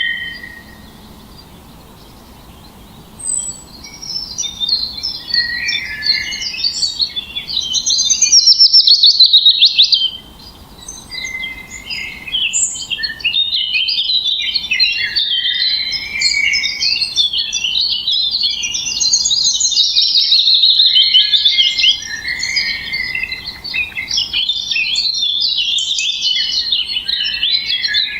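Songbirds chirping and singing in a busy overlapping chorus. After a short quiet lull at the start it builds, with a loud fast trill about eight seconds in and another about two-thirds of the way through.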